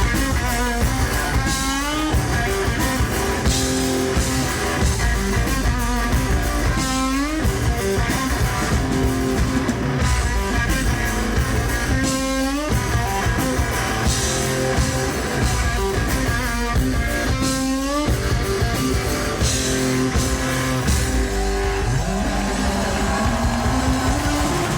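Live rock band playing an instrumental passage: an electric guitar riff over a drum kit, with a sliding guitar figure that comes back about every five seconds.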